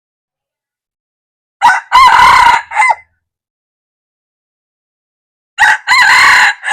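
Red junglefowl rooster crowing twice, a few seconds apart. Each crow is short and clipped, about a second and a half, ending on a falling note.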